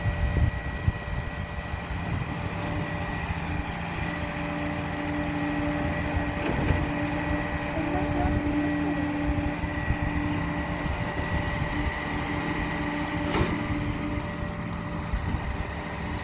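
Recycling truck running steadily: a low engine rumble with a steady whining tone over it.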